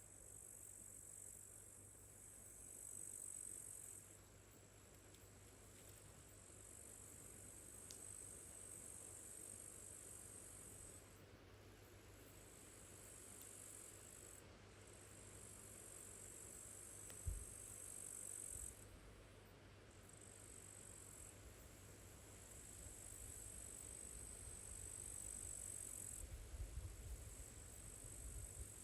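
Crickets trilling faintly and high-pitched in long spells of a few seconds each, stopping and starting again, with a soft bump about two thirds of the way through.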